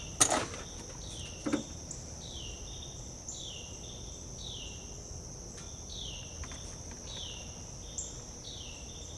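Crickets or other insects keep up a steady high drone, while a short falling chirp repeats about once a second. Near the start come two sharp clicks.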